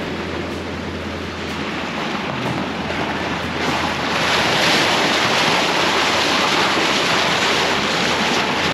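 Steady rush of wind and water noise from a boat under way, growing louder about four seconds in, then cutting off suddenly.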